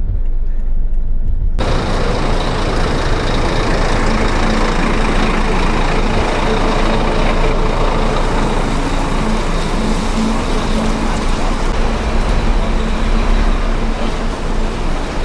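Street traffic noise: a loud, steady hiss of passing vehicles with a faint engine hum underneath. It cuts in suddenly about a second and a half in.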